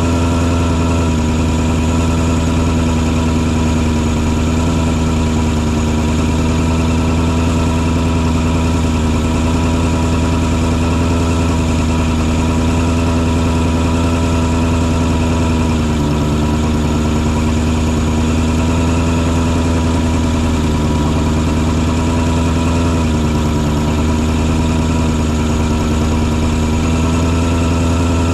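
Engine on a mosquito-fogging truck running steadily, its pitch dipping slightly twice in the second half.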